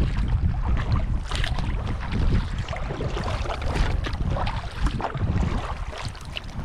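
Kayak paddling on open water: paddle blades splashing at irregular intervals over a steady rumble of wind buffeting the microphone.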